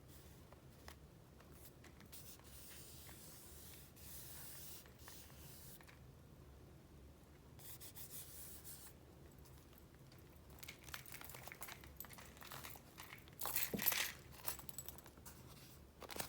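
Sheets of paper being handled and flipped: soft sliding rubs first, then crinkling and rustling that peaks about two-thirds of the way through.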